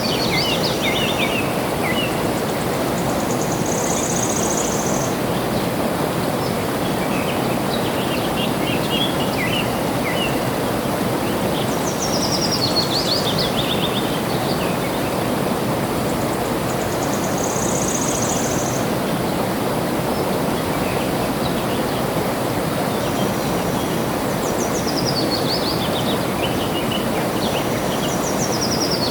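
Flowing water with a steady rush, under birdsong: a bird sings a quick run of notes that falls in pitch, repeated several times, and a short, very high buzzing trill comes twice, with a few scattered chirps between.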